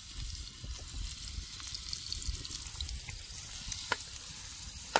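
Chopped onions sizzling as they fry in oil in a small pan, over a low rumble, with a sharp click near the end.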